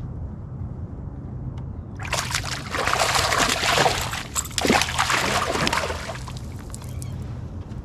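Water splashing and sloshing at a kayak for about four seconds, starting about two seconds in, over a steady low hum.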